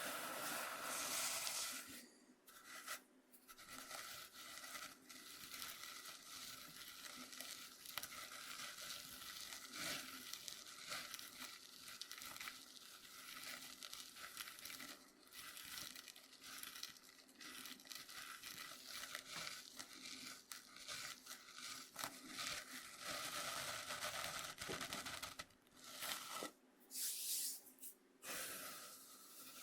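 Coarse cornmeal scraped and rubbed across a bamboo cutting board: a continuous gritty, scratchy rasp made of many small strokes, with a few brief pauses.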